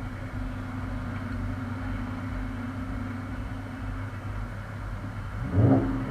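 Car engine and exhaust droning steadily at a low pitch while driving. About five and a half seconds in there is a brief, louder surge.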